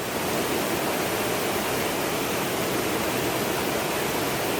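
Waterfall rushing as a steady, even roar of falling water.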